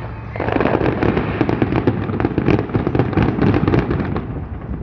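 Aerial fireworks finale: a dense, rapid run of shell bursts and crackling, thinning out near the end.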